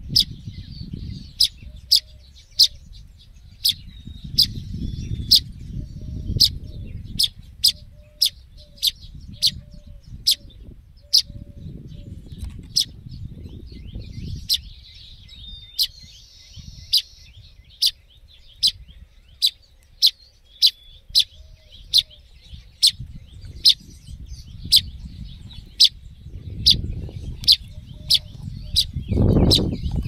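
A fledgling bird gives sharp, high single chirps over and over, about one and a half a second, like begging calls. Under them runs a low rumble that comes and goes, with a louder low thump near the end.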